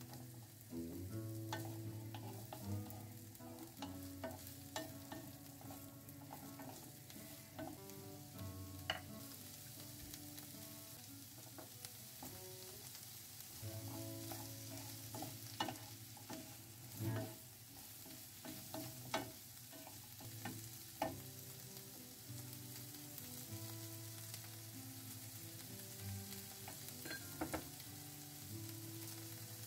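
Diced onion, garlic and ginger sizzling gently in oil in a nonstick frying pan, stirred with a wooden spoon that knocks against the pan now and then. Soft background music plays underneath.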